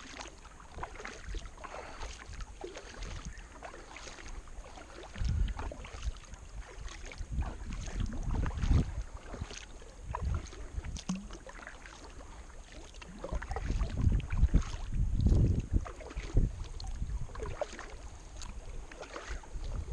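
A kayak being paddled: paddle blades dip and splash in irregular strokes. Gusts of wind buffet the microphone with a low rumble, heaviest about a quarter of the way in and again through the middle to late part.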